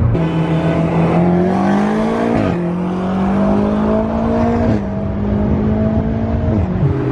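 BMW M5 engine accelerating, its pitch climbing through the gears with two quick drops at the upshifts, about two and a half and five seconds in. Near the end it eases off to a lower, steady note.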